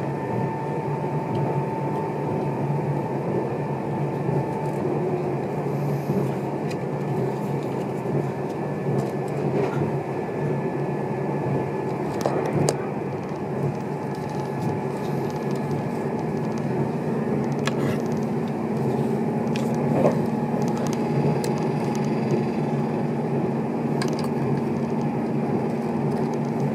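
Running noise heard inside a Meitetsu 2000-series μSKY electric train under way: a steady rumble of wheels on rail with a faint motor hum and a few sharp clicks, a lower hum coming in about two-thirds of the way through.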